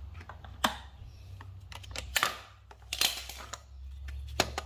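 Scattered light clicks and short taps of hands handling the starter motor and its cables, about five in all, over a steady low hum.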